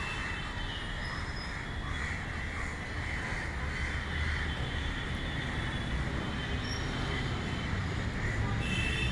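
Crows cawing over a steady low outdoor rumble.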